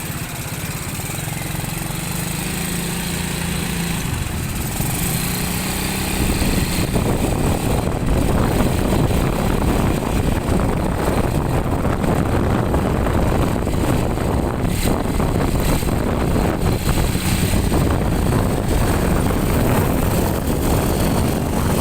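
Motorcycle engine running steadily at low revs, then the ride picks up about six seconds in and a loud rush of wind on the microphone covers the engine for the rest of the time.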